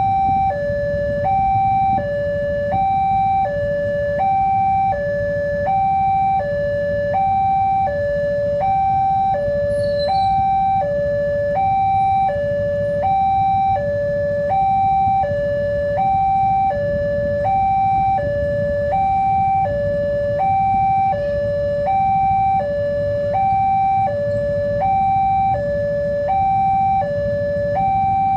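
Railway level-crossing warning alarm sounding a steady two-tone signal, a higher and a lower tone alternating about every half second, the warning that a train is approaching. A low steady rumble runs underneath.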